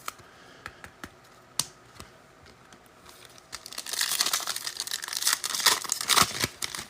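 A few light clicks and taps of trading cards being handled, then, starting about three and a half seconds in, some three seconds of crinkling and tearing as a trading card pack wrapper is ripped open.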